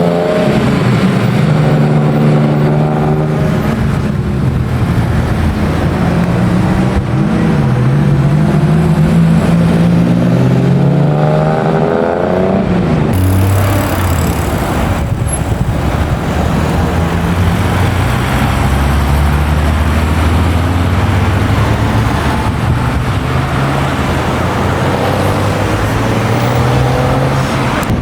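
Classic and historic car engines running and revving, their pitch rising and falling as the cars pull away or pass. About thirteen seconds in the sound changes abruptly to a deeper engine note.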